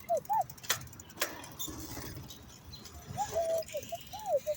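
Short, arching whistled bird calls, a few at the start and a cluster near the end, with two sharp clicks in between.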